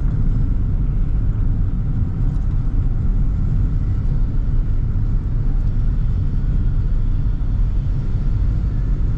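Steady low rumble of a Toyota Sprinter AE110 driving, engine and road noise heard from inside the cabin.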